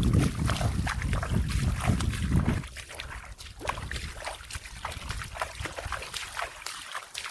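Wet splashing and sloshing in shallow muddy water, with scattered small splashes and crackles. A heavy low rumble runs under it for the first two and a half seconds and then cuts off suddenly.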